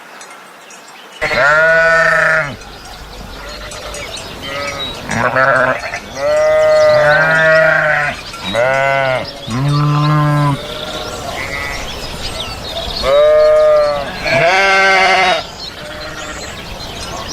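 Several sheep or goats bleating in a series of about eight calls, some high-pitched and some deeper, starting about a second in.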